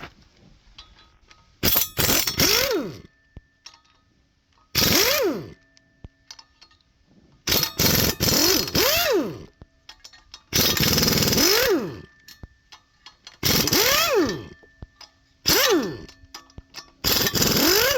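Impact wrench run in about seven short bursts, spinning up and winding back down in pitch each time, as bolts are broken loose on an LS 5.3 V8 engine.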